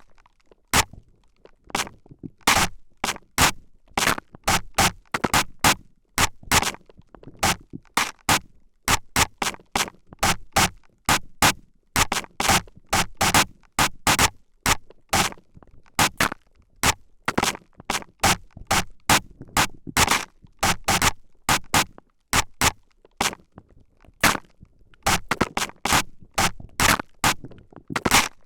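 Trigger spray bottle squirting mist in short hissy bursts straight at the microphone, one to three sprays a second with uneven gaps.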